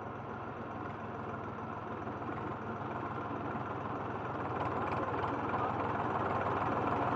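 A steady engine hum with a wash of noise, slowly growing louder.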